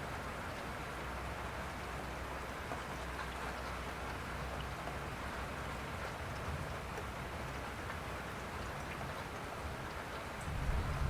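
Steady rain falling, an even hiss with scattered drops. A low rumble of thunder builds near the end.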